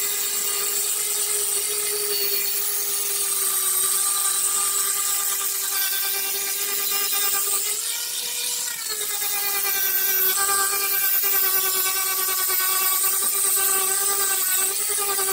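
Handheld electric grinder running steadily and grinding a boat's surface, with a steady high motor whine over a gritty hiss. About halfway through its pitch rises briefly, then settles back.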